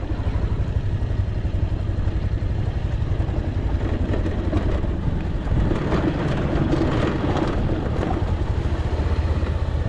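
Motorcycle engine running, with a steady, rapid low pulse.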